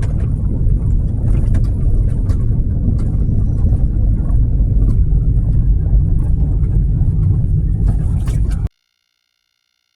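Dirt-bike engines running as a dense low rumble with scattered clicks, cutting off abruptly near the end.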